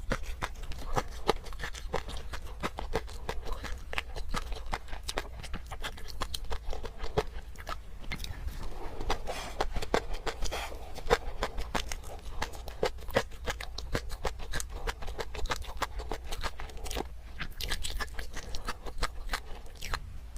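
Close-miked eating: wet chewing and crunching of garlic cloves in peanut sauce, many irregular sharp crunches and mouth clicks.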